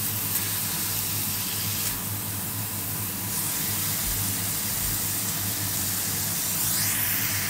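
Chicken pieces and onions sizzling in a hot cast-iron skillet as they are stirred: a steady frying hiss.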